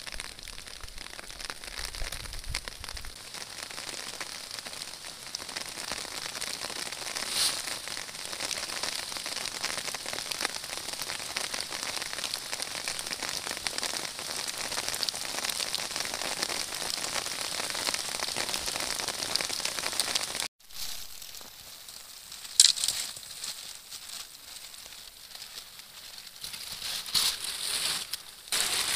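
Rain pattering steadily in a dense crackle of drops. It cuts off abruptly about two-thirds through, then goes on quieter, broken by one sharp loud snap and a few louder rustles near the end.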